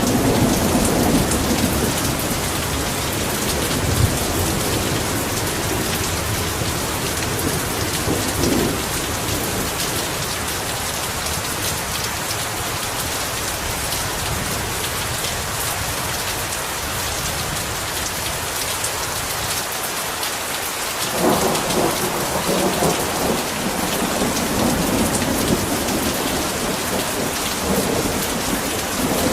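Heavy rain falling steadily in a dense hiss, with thunder rumbling low underneath; the thunder fades in the middle and a stronger roll builds about two-thirds of the way through.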